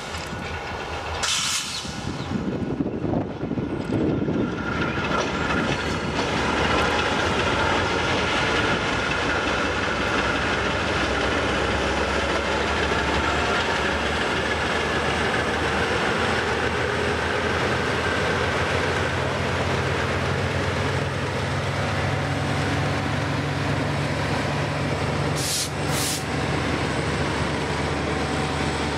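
Several diesel-electric freight locomotives passing close by, their engines running with a steady heavy rumble that builds over the first few seconds as they draw near. A deeper engine hum grows stronger in the last third as the last locomotive goes by, with a couple of short hissing sounds near the end.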